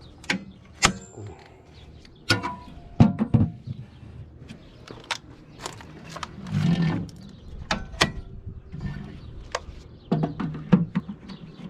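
Circuit breakers being switched on to power an air-conditioning package unit: a series of sharp clicks and knocks at irregular intervals.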